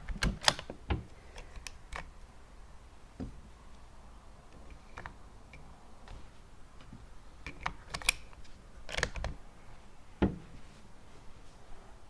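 Bolt of a Tikka T1x .22 LR bolt-action rifle being worked after a shot: a quick run of sharp metallic clicks in the first second, then scattered clicks and knocks of handling, a little louder about eight to ten seconds in.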